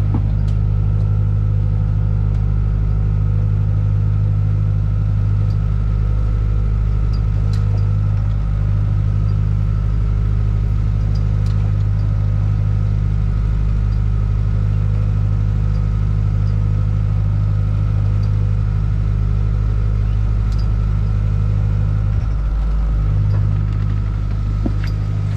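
Sailboat's inboard diesel engine running steadily while motoring, a loud even low drone with a faint steady whine above it and a few light clicks.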